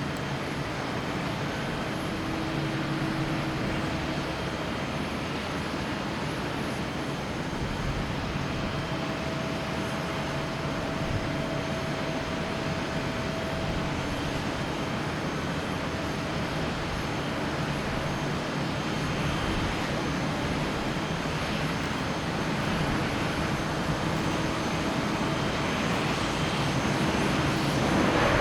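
Boeing 737-800's CFM56-7B jet engines on final approach: a steady jet hum with a few thin whining tones, growing louder toward the end as the aircraft nears.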